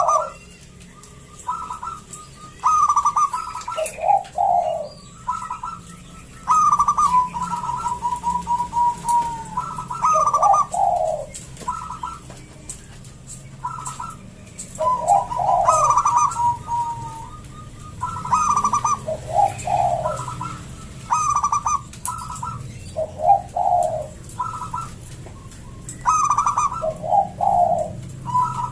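Local zebra dove (perkutut) with a thick, full voice cooing phrase after phrase: each phrase is a quick trill of notes at a high pitch dropping to lower falling notes, and a few phrases end in a long, even trill.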